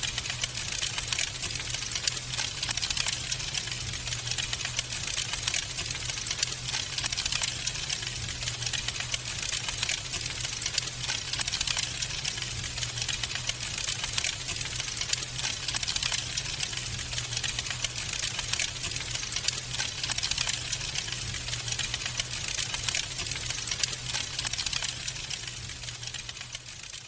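Wood fire crackling in a fireplace: dense, rapid crackles with occasional louder pops over a low steady hum. It fades out near the end.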